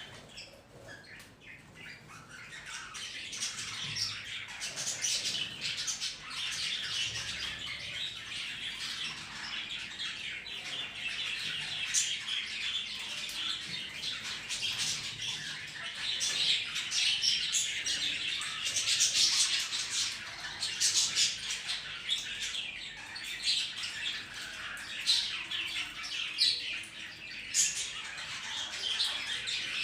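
Caged budgies and a parrot chattering and squawking nonstop, a dense stream of rapid high chirps that grows louder over the first few seconds.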